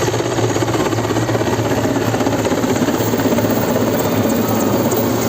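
Helicopter running close by, loud and steady, with the fast pulsing of its rotor.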